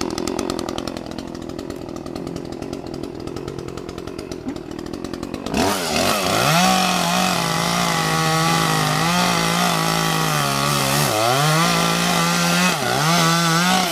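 Chainsaw idling, then opened up to full throttle about five and a half seconds in and held there while cutting, its pitch sagging briefly twice under load before dropping back near the end. This is the back cut on a tree being felled.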